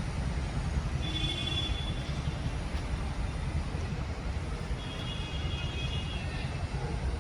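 Steady low city-traffic rumble, with birds calling high in a tree twice, about a second in and again about five seconds in.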